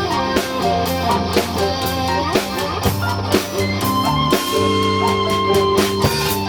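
A live Latin fusion band plays an instrumental passage: a guitar melody with bent notes over held chords and a drum kit keeping a steady beat.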